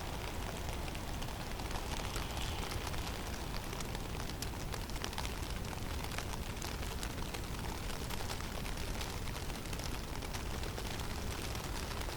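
Heavy snowstorm in a forest: a steady low rumble of wind under an even hiss, dotted with many faint scattered ticks of falling snow striking.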